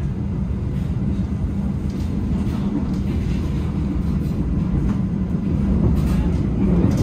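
Passenger train running at speed, heard from inside the carriage: a steady low rumble of wheels on the rails, with faint clicks now and then.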